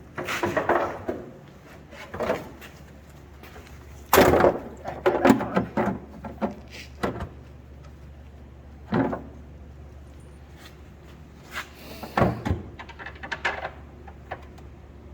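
Irregular clunks and knocks of parts and tools being handled while a Polaris RZR's clutch and belt area is reassembled, in about six separate clusters.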